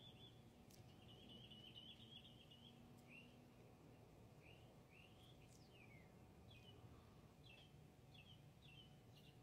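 Faint songbird chirping: a short trill, then a series of separate quick chirps that come faster near the end, over low background noise.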